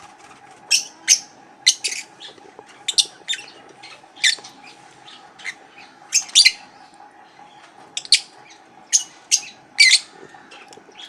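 Lovebirds in a flock giving short, sharp, high-pitched chirps and squawks, often in quick pairs, over a steady faint hum.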